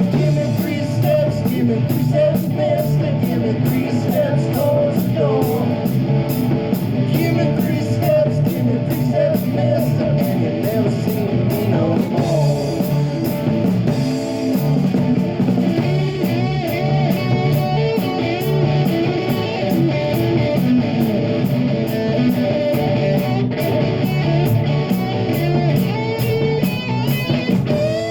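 Live rock band playing: electric guitar, bass and drum kit, with a steady hi-hat beat that drops out for a few seconds about halfway through.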